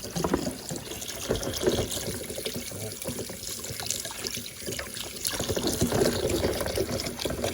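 Tap water running and splashing as freshly laid chicken eggs are rinsed by hand to wash droppings off them, with irregular small knocks and splashes.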